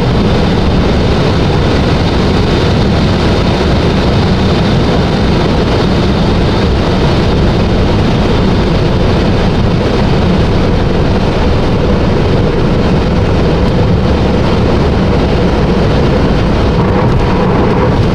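Steady rushing wind and road noise of a Tesla Model 3 being driven. The wind noise is still there after aftermarket door seals were fitted.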